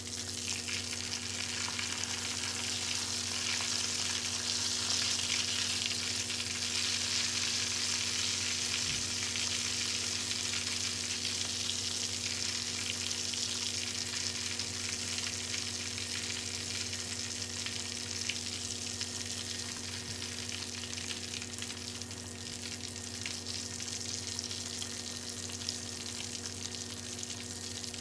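Pork belly deep-frying into Thai crispy pork (moo krob) in hot oil in a stainless steel pan: a steady sizzle of bubbling oil, a little louder in the first half.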